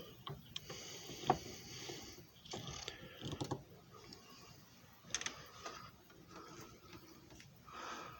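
Scattered mechanical clicks and rattles from the parts of a JFJ Easy Pro disc repair machine being handled. A run of clicks comes about three seconds in and another about five seconds in.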